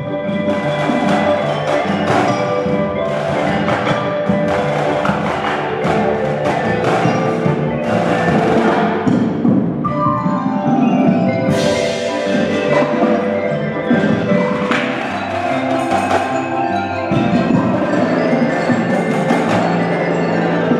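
Indoor drumline performing: front-ensemble mallet keyboards and chimes playing with struck drum and percussion hits, and a loud crash a little past halfway.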